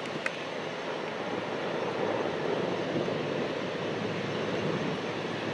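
Aircraft engine noise running steadily, a little louder in the middle.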